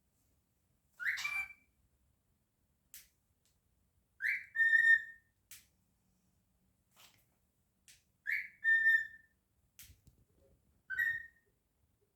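Cockatiel whistling: four short whistled phrases a few seconds apart, each a quick rising chirp sliding into a briefly held note, with faint clicks in between.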